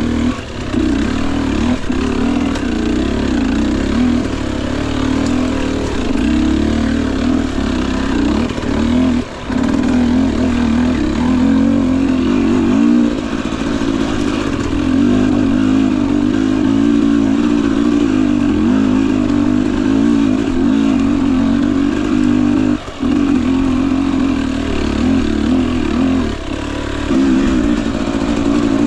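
Husqvarna TE 250i two-stroke dirt bike engine running at fairly low revs, its pitch wavering up and down with the throttle. The sound drops briefly twice, about a third of the way in and again near three quarters of the way through.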